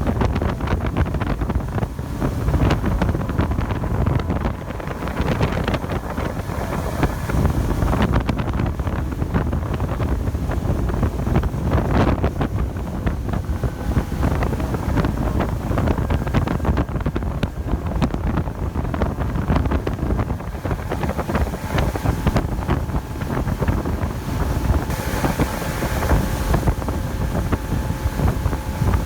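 Wind buffeting the microphone over the steady drone of a motorboat's engine, with faint steady whining tones.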